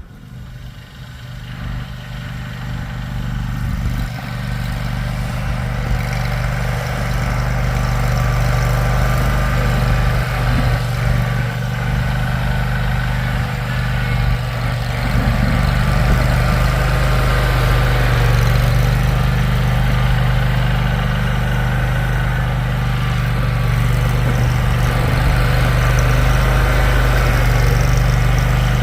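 A vehicle engine running at a steady pitch, growing louder over the first few seconds and then holding even.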